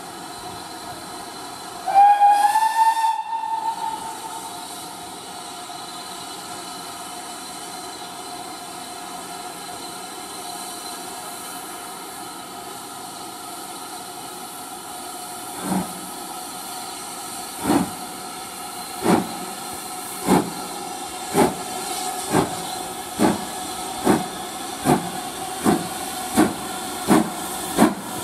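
Steam locomotive hissing while it stands, with one short whistle blast about two seconds in. About halfway through it starts away: single exhaust chuffs, slow at first, quicken steadily.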